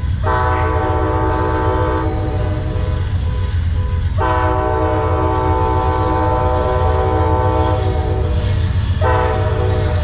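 Multi-chime air horn of an Amtrak GE P42DC diesel locomotive sounding two long blasts and a short one, the start of the long-long-short-long grade-crossing signal, over the steady low rumble of the passing train.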